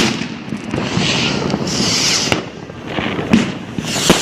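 New Year's fireworks going off: a sharp bang right at the start and another about four seconds in, with crackling and fizzing bursts in between.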